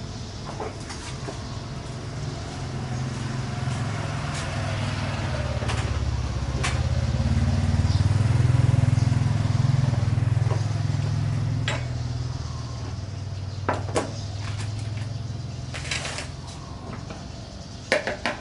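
A motor vehicle's engine rumble that swells over several seconds, peaks about halfway through, then fades, as a vehicle passes. Scattered sharp clicks and taps run through it, with a quick cluster near the end.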